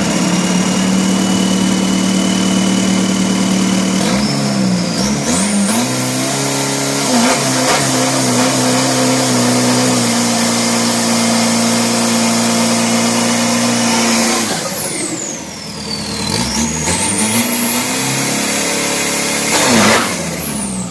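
Turbocharged 3.0-litre pickup engine revved hard and held at high rpm, with a high turbo whistle riding on top. Revs drop briefly about four seconds in and again about two-thirds of the way through, each time with the whistle falling and climbing back as the engine is taken up again.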